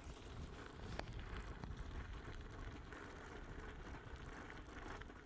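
Bicycle rolling over rough ground: a steady low rumble from the tyres and frame, with a few sharp clicks.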